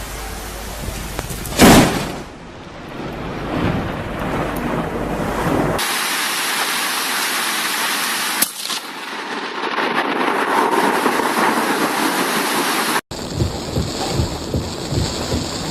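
Thunderstorm: a sudden, very loud crack of thunder about two seconds in, then steady rain hiss, with a second, smaller crack near the middle.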